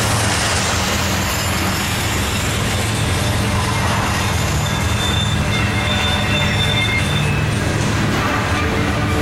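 Loaded coal hopper cars rolling past: steel wheels running on the rails in a steady, loud rumble, with a faint high wheel squeal for a few seconds midway.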